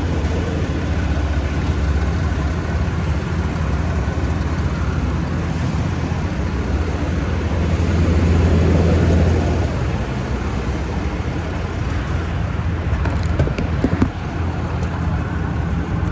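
A vehicle engine idling, a steady low drone that swells a little about halfway through, with a sharp click or knock near the end.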